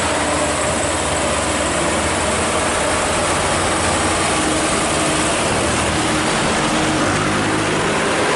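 Heavy road vehicles running, most likely buses and trucks with diesel engines, under a steady loud rush of tyre and traffic noise.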